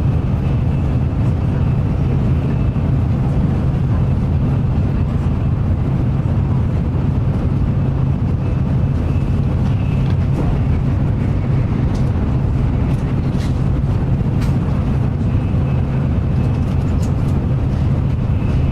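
Shinkansen bullet train cabin noise at speed: a steady low rumble of the running train, with a few faint high ticks in the second half.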